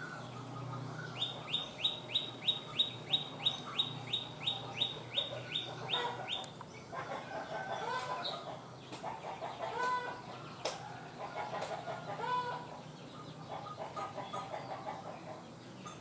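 Bird calling: a fast series of about sixteen high, sharp, upward-sweeping notes, roughly three a second for about five seconds, followed by scattered lower calls and a few sharp ticks.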